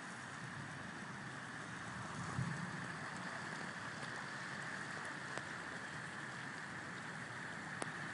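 Storm-surge water rushing through a harbour like a river, a steady hiss of moving water. A brief low thud comes about two and a half seconds in, and a faint click near the end.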